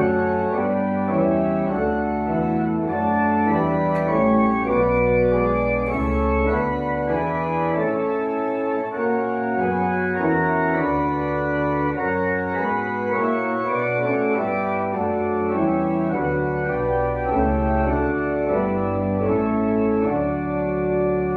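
Organ playing a hymn in slow, sustained chords over a moving bass line, with no singing.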